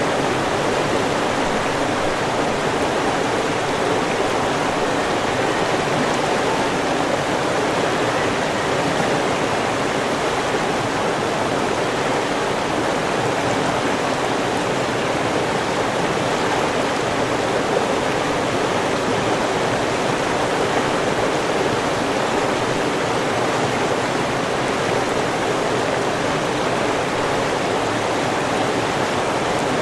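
River water flowing steadily, an even rushing wash with no breaks or single events.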